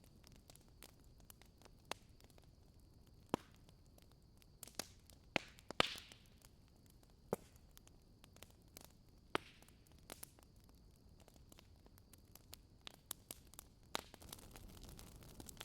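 Wood fire crackling in a fireplace: faint, scattered small clicks with a handful of sharper pops, the loudest about six seconds in, over a low hiss.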